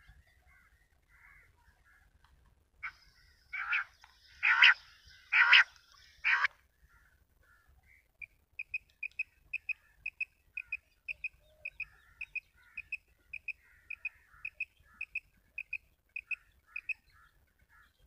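Birds calling: about five loud, harsh calls in quick succession in the first half, then a long, even series of short high piping notes, about two a second, over faint chirping.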